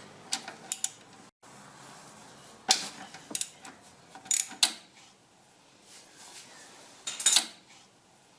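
Short clusters of sharp metallic clicks and clinks from a wrench working the nut off the alternator's terminal stud, with gaps of quiet between them.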